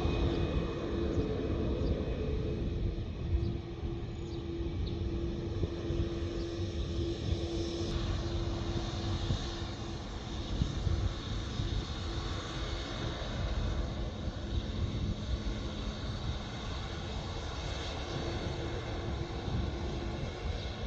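Jet airliner engines running, a continuous rumble with a steady hum tone that fades in and out.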